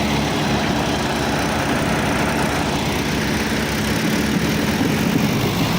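Mahindra diesel tractor engines running steadily and hard under the load of a tug-of-war pull.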